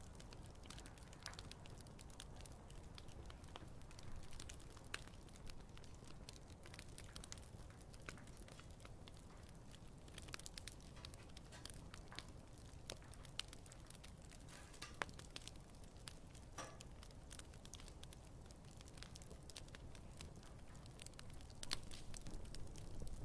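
Campfire burning: a faint low rumble of the flames with irregular crackles and pops of the burning wood, a few louder pops scattered through.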